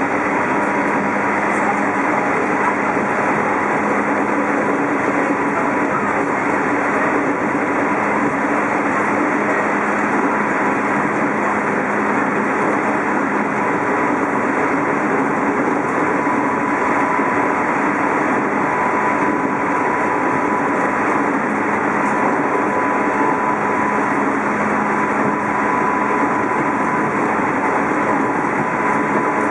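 Running sound of a JR East 211-series electric multiple unit heard inside motor car MoHa 210-2001 at steady speed: a constant rumble of wheels on rail, with a steady whine through it.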